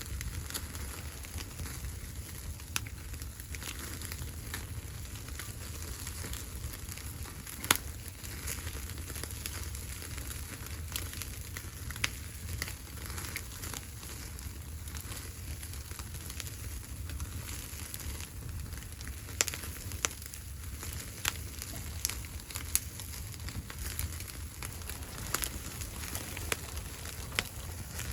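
Wood fire burning, a steady crackle with sharp pops scattered irregularly, the loudest about eight seconds in, over a low steady rumble.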